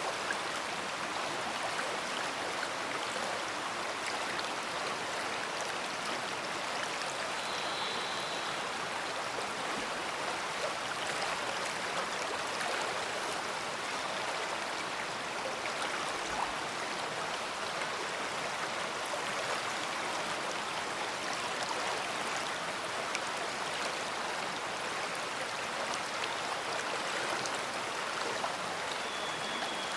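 A big river flowing: a steady, even rush of moving water.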